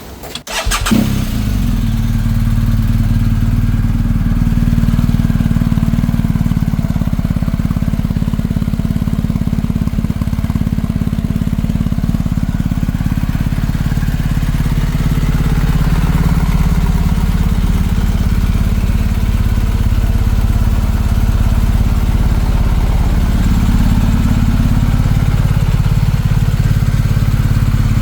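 BMW R1250GS boxer-twin engine cranked by its starter and catching within about a second, then idling steadily.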